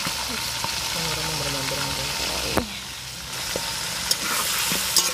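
Chicken pieces deep-frying in hot oil in a metal wok, with a steady sizzle. A metal ladle and spatula give a few sharp clicks against the wok. The sizzle drops briefly after a sharp knock about two and a half seconds in.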